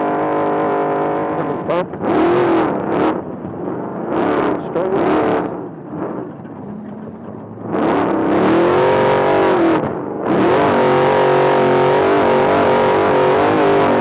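Trophy truck engine at race pace, its pitch climbing and falling as the throttle comes on and off, with several short breaks and a quieter stretch about halfway through.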